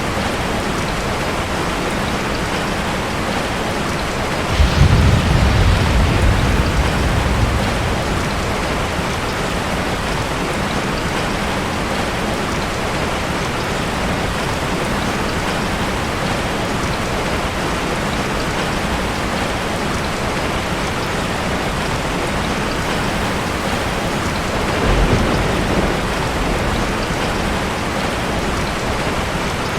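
Steady heavy rain, with a clap of thunder rumbling and fading over a few seconds about a quarter of the way in, and a weaker, shorter rumble near the end.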